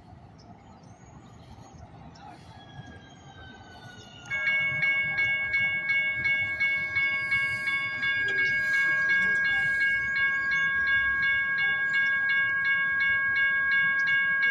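A SacRT light rail train sounding its horn. A loud, steady multi-note tone starts abruptly about four seconds in and is held for the rest, with a light regular ticking over it.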